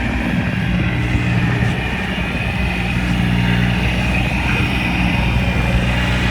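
An engine running steadily at an even, low pitch, like a vehicle idling.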